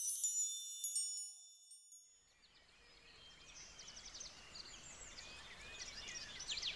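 High, bright chimes ring out and fade away over the first two seconds, leaving a moment of near silence. Then a soft outdoor ambience with chirping birdsong fades in and grows louder toward the end.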